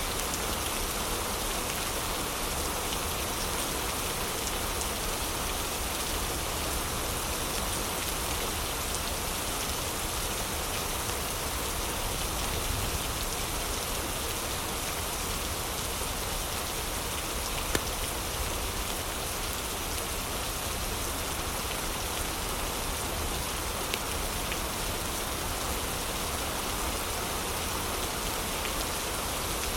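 Heavy rain falling steadily, an even, unbroken hiss, with a couple of faint clicks in the second half.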